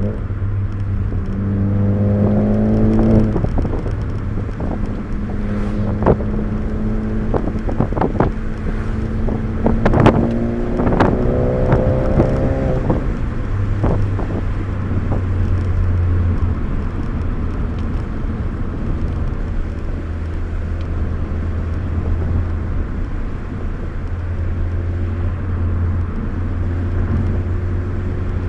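Inside the cabin of a 2013 Ford Focus ST on the move: a steady low engine and road drone, with the engine note climbing and holding under acceleration several times in the first half and a few sharp knocks, then settling into an even cruise.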